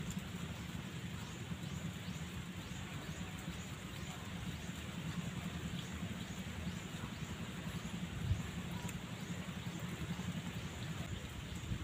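Outdoor ambience: a small bird chirping over and over in short, high, falling calls, over a steady low rumble. A couple of faint clicks come about eight and nine seconds in, as a spoon works at a sea urchin shell.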